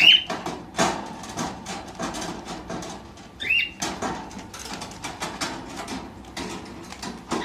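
Cockatiel giving a short chirp about three and a half seconds in, with irregular light clicks and taps throughout.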